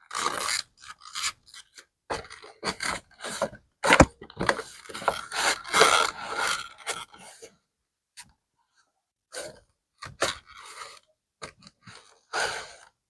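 Leather bag being handled and worked: irregular rubbing and scraping strokes against the leather, with a sharp knock about four seconds in, the strokes thinning out after about seven seconds.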